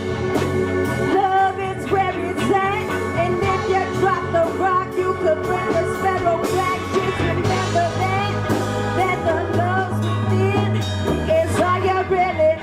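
A live band playing a song: drums keep a steady beat under a bass line, with a wavering melodic lead on top.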